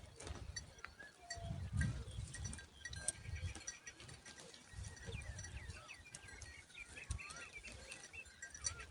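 Small birds chirping and calling: many short chirps and a run of wavering whistled notes, denser in the second half, over a low rumble that comes and goes.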